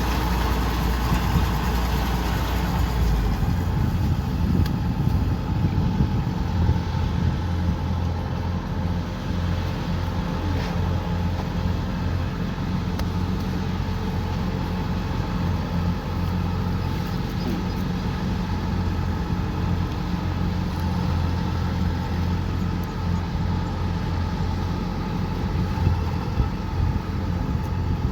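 Kubota combine harvester's diesel engine running steadily with a low hum while harvesting rice.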